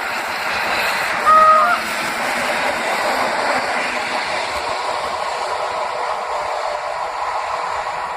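A train rolling past with a steady rumble and hiss of wheels on rails. About a second and a half in comes a short, half-second toot at a single pitch, the loudest moment.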